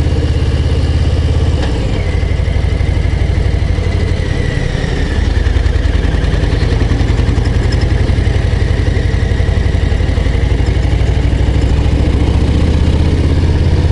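Harley-Davidson Low Rider ST's Milwaukee-Eight 117 V-twin running under load as the motorcycle pulls uphill, with a steady, dense exhaust beat. The sound dips briefly a little under two seconds in, then pulls on evenly.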